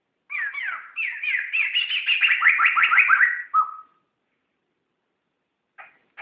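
Poksay (laughingthrush) singing a quick run of clear, falling whistled notes, about five a second, that ends on a lower held note after about three and a half seconds; after a pause, another phrase begins near the end.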